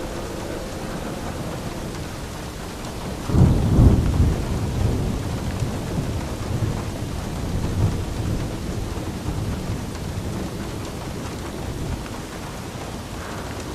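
Steady rain falling, with a roll of thunder that breaks in about three seconds in, peaks about a second later and rumbles on, slowly fading, for several seconds.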